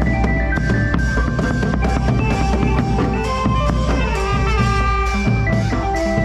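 Thai brass band (trae wong) playing a tune, with a steady drum-kit beat under held brass notes.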